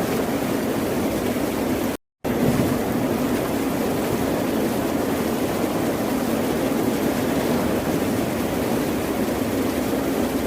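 Ocean surf washing as a steady, even rush of noise, cut by a brief silent dropout about two seconds in.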